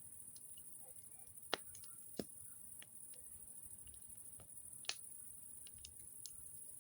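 Wood campfire crackling: scattered sharp pops and snaps of burning wood, three louder ones about one and a half, two and five seconds in.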